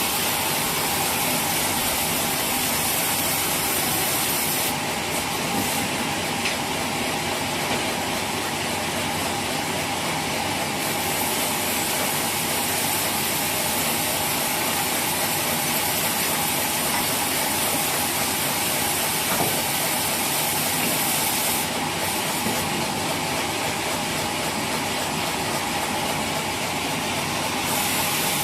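Sawmill saw running through a log: a loud, steady hissing whine that carries on without a break, its very top edge dropping back and returning a few times.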